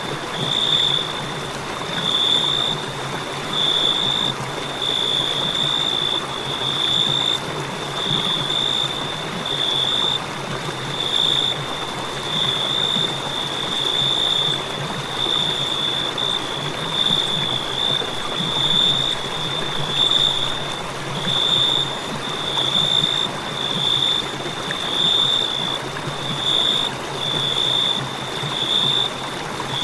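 Cricket chirping: a high, steady trill broken into pulses of under a second with short gaps between, about one every second, over a steady background hiss.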